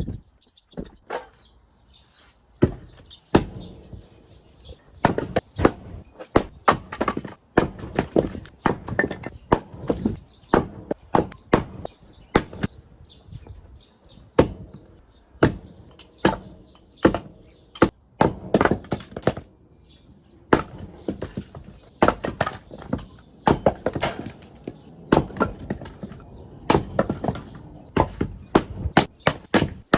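Axe striking and splitting firewood: many sharp wooden chops and cracks at an uneven pace, sometimes several in quick succession.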